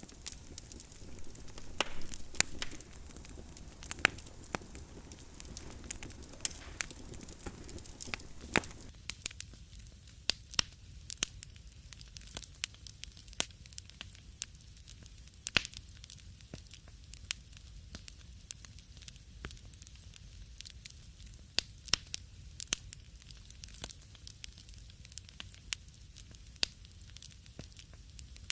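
Wood fire in a fireplace crackling, with frequent irregular sharp pops and snaps over a low steady rumble. The background hiss drops noticeably about nine seconds in while the pops carry on.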